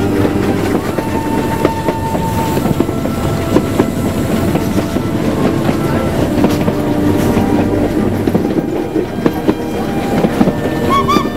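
Train of the Baie de Somme heritage railway running on the rails, its wheels clicking over the rail joints.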